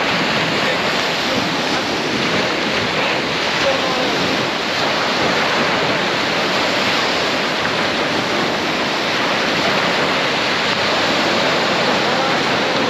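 Steady rush of surf and moving water, with faint distant voices in the background.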